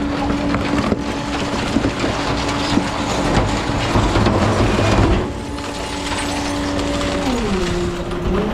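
Rear-loader recycling truck working: a steady engine and hydraulic whine over crunching and clattering, as from the packer compacting recyclables. The crunching eases about five seconds in, and near the end the whine drops in pitch as the engine slows down.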